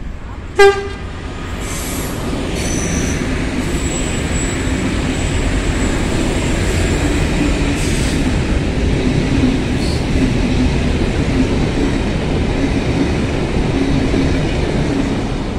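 V/Line VLocity diesel multiple unit sounds one short horn blast about half a second in, then passes close by with a steady rumble of underfloor diesel engines and wheels on rail. Brief high wheel squeals come in the first few seconds of the pass.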